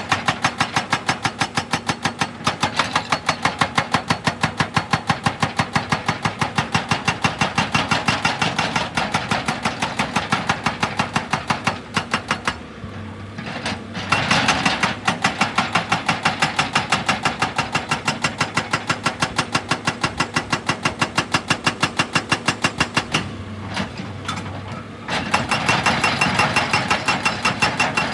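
Excavator-mounted hydraulic rock breaker hammering rock in a fast, even rhythm of several blows a second, over the excavator's running engine. The hammering stops briefly twice and starts again.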